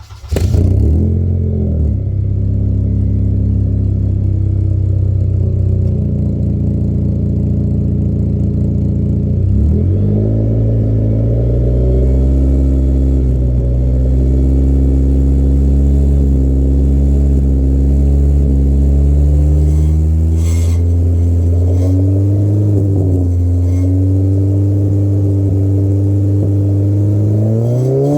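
Honda Civic Type R FD2's K20A four-cylinder engine, breathing through a straight-piped exhaust with a cat-delete pipe, starts up about half a second in and then idles loudly and steadily. The idle speed shifts slightly around ten seconds in and again near the end. Right at the end it is blipped, its pitch rising sharply.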